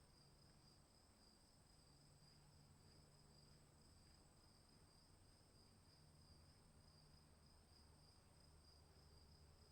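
Faint, steady chorus of crickets trilling continuously, with two high pitches sounding at once.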